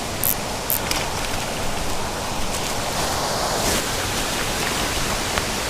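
A steady rushing noise, with a few faint high ticks about half a second in.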